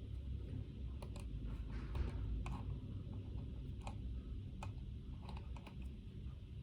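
Typing on a computer keyboard: light key clicks at an irregular, unhurried pace, over a steady low hum.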